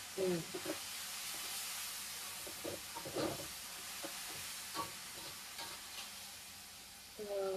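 Kangkung (water spinach) stir-frying with belacan in a hot pan: a steady sizzle, with a few short scrapes and knocks as it is stirred. The sizzle fades a little toward the end.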